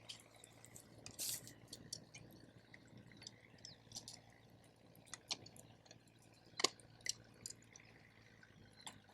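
Wood campfire crackling: irregular sharp pops and snaps of varying strength, the loudest about two-thirds of the way through.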